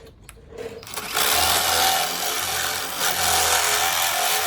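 Power drill starting about a second in and running steadily under load, boring to make a hole a little bigger.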